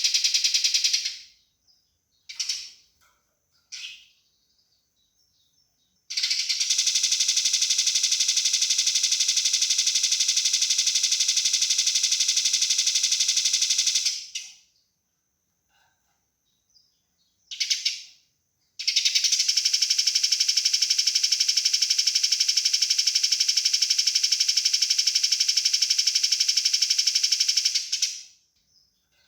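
Eurasian tree sparrow fighting calls: two long, fast, densely pulsed rattling churrs of about eight seconds each, with a few short chirps between them and the tail of another rattle ending about a second in.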